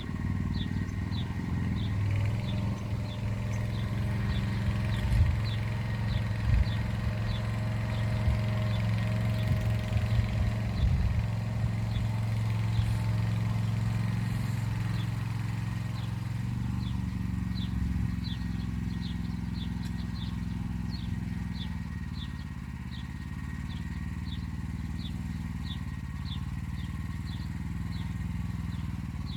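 Motor Sich walk-behind tractor engine running steadily under load while hilling, its note shifting a little about halfway through. Short high chirps repeat about twice a second over it.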